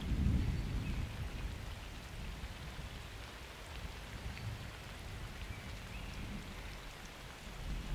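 Steady summer rain falling in a thunderstorm, with scattered drops ticking. A low thunder rumble dies away in the first second or so, and another low rumble swells near the end.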